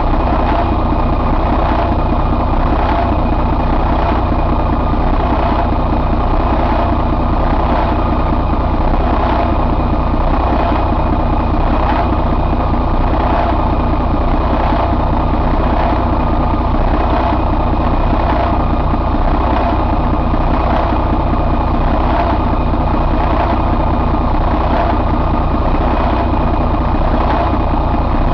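Detroit DD13 inline-six diesel engine running steadily at a constant low speed, with faint regular ticks over the drone.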